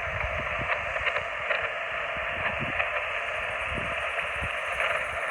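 Icom IC-718 HF transceiver receiving an empty 20-meter frequency: steady band-limited hiss through the narrow voice filter, with frequent sharp crackles of static, which the operator puts down to lightning crashes. No station is answering.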